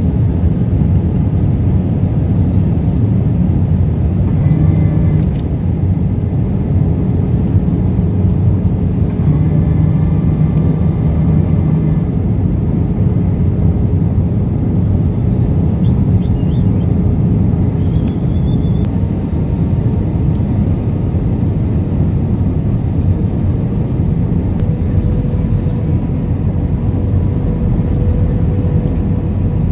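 Steady low rumble of an Airbus A320 airliner's engines and airflow, heard inside the passenger cabin.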